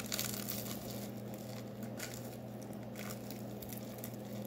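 Biting into and chewing a crunchy Cinnamon Toast Crunch cookie: a loud crunch at the start, then scattered crackles as it is chewed.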